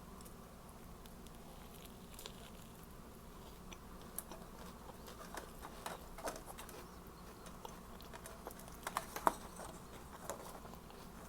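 Faint mouth sounds of a person biting and chewing a toasted sub sandwich: scattered soft crunches and clicks, with a louder cluster about nine seconds in.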